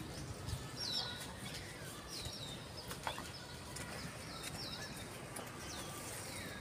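Small birds in the trees calling: short high chirps, each dropping quickly in pitch, repeated about once or twice a second.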